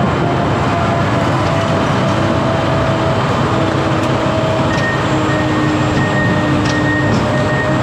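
A vehicle on the move: steady, loud engine and road noise with a few steady whining tones, one higher whine coming in about two-thirds of the way through.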